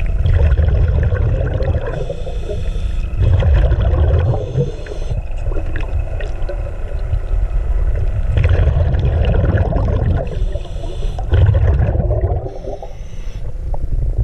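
Ski boat under way: its engine running under water rushing and churning past the hull, with heavy wind rumble on the microphone that swells and fades every few seconds.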